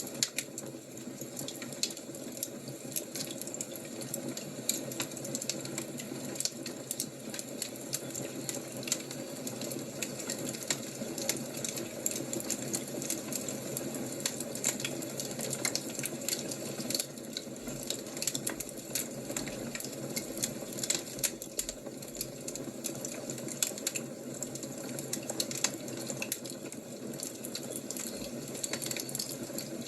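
Wood fire crackling: a steady hiss under a dense, irregular scatter of small sharp pops.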